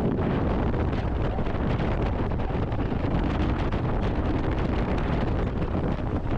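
Wind buffeting the microphone over the steady rumble of a boat under way.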